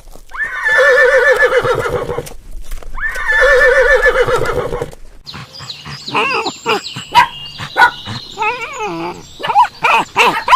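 Horse whinnying twice, each neigh about two seconds long with a quavering, shaking pitch. Then comes a run of short calls that glide quickly up and down, broken by several sharp, loud peaks.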